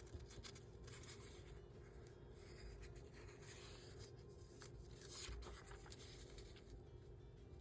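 Faint rubbing and light scratching of paper being handled at a craft desk, over a steady low room hum.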